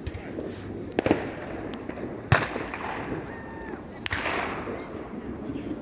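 Fireworks salute going off: sharp bangs about a second in (a quick double), about two seconds in (the loudest) and about four seconds in, each trailing off in a fading rumble and echo.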